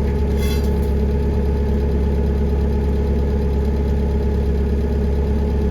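An engine idling steadily with a deep, even hum, and a brief high ringing squeal about half a second in.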